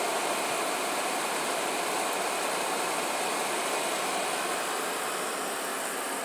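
Steady rain falling, an even rushing noise that eases slightly near the end.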